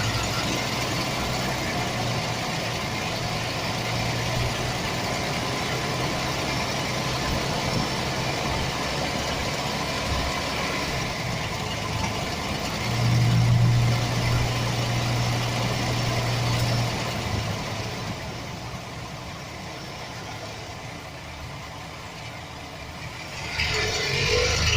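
A 2007 Chevrolet Express's 4.3 L V6 engine idling steadily. Its level swells for a few seconds about halfway through, then dips lower before rising again near the end.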